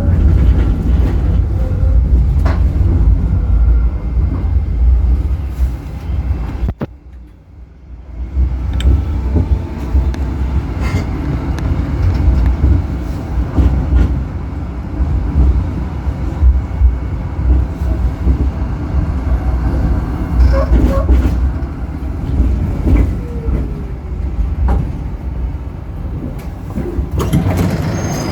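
Tram in motion heard from on board: a low rumble with scattered clicks and knocks from wheels on the rails. The sound drops away sharply for about a second about seven seconds in, then resumes.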